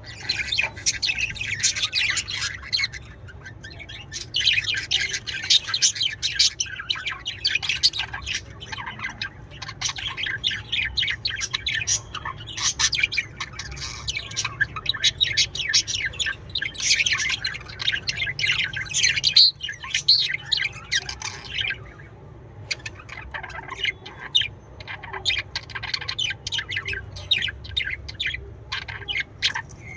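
Budgerigars chirping and warbling in dense, rapid chatter, with brief lulls about three seconds in and again past the twenty-second mark.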